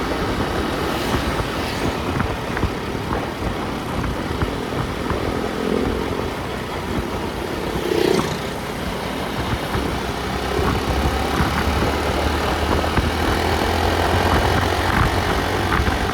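A motor vehicle driving on the road: steady road and engine noise, with a low engine drone that grows stronger about ten seconds in.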